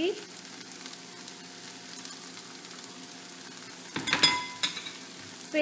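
Chopped spinach and coriander leaves frying in oil and tomato-onion masala in a pan, a faint steady sizzle. About four seconds in, a metal spoon strikes the pan with a few short ringing clinks.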